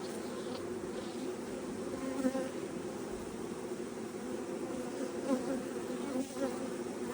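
Steady hum of a honey bee swarm: many bees buzzing together around the hive box and frames.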